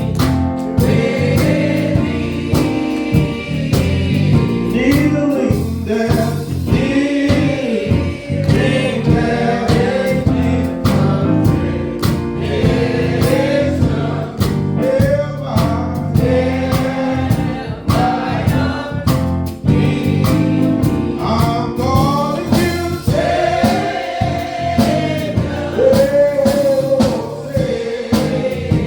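Gospel choir singing with instrumental accompaniment, voices gliding between sustained notes over full chords.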